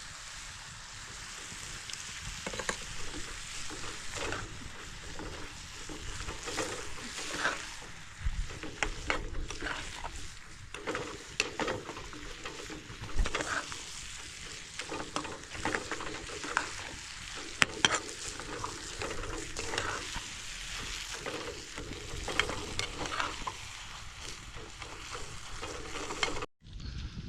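Steady sizzling hiss with irregular scraping and clicking strokes, as of a utensil stirring in a hot pan. It cuts off abruptly near the end.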